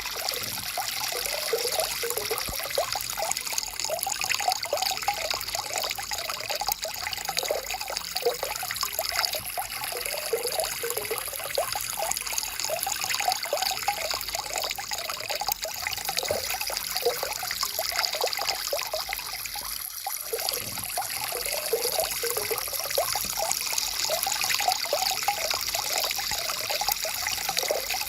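Water flowing and trickling over stones in a small stream, a steady babbling with constant small gurgles.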